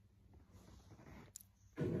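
Faint low rustling, a light click about one and a half seconds in, then a short dull thump just before the end.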